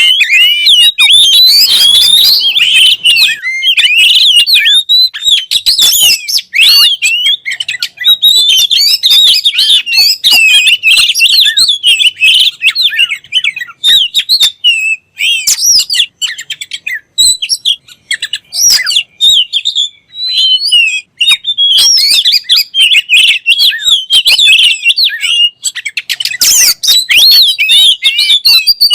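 Oriental magpie-robin (kacer) singing a loud, rapid, varied song of chirps and sliding whistled notes, with a few short pauses. It is a training call, played to set kacer birds singing.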